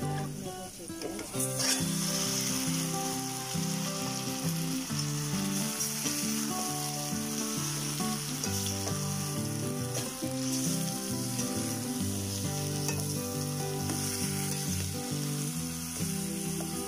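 Marinated chicken pieces going into hot oil with sautéed onions and chilli flakes: a sudden louder sizzle about a second and a half in, then steady frying sizzle as a metal ladle stirs the meat in the pot.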